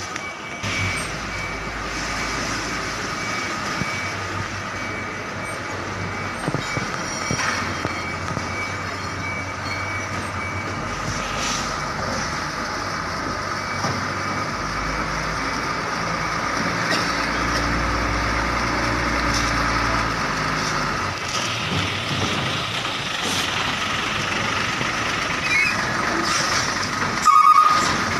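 Heavy diesel container trucks running and moving, with steady engine rumble and road noise. A reversing alarm beeps at the start and again near the end.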